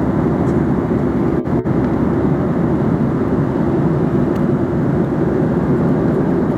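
Steady cabin noise of a passenger airliner in flight: the engines and rushing airflow heard inside the cabin as a dense low rumble. It drops out for an instant twice about a second and a half in.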